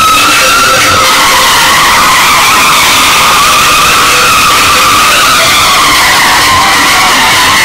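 Car tyres squealing loudly through a sustained drift, one continuous high squeal that wavers slightly in pitch, over the roar of tyre and engine noise.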